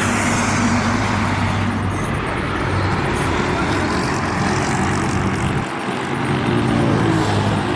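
Highway traffic with heavy diesel trucks passing close by: a steady low engine drone over tyre and road noise, dipping briefly about six seconds in before another engine comes up near the end.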